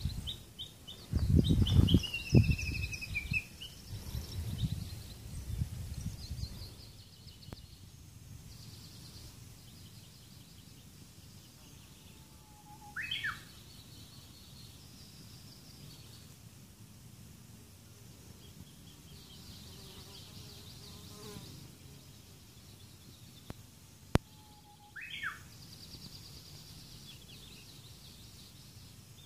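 Small wild birds singing high, rapid trills in mountain scrub. Another bird gives the same short, sharp call twice, about twelve seconds apart. In the first few seconds, wind rumbles in gusts on the microphone.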